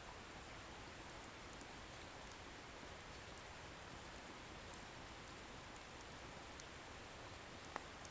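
Wood bonfire burning: a faint steady hiss with small scattered crackles, and one sharper pop near the end.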